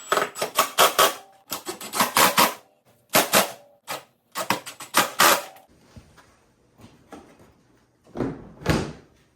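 Rapid clusters of sharp clicks and knocks from the snowmobile's hard plastic hood being handled and worked, then fainter scattered ticks and two duller, heavier knocks near the end.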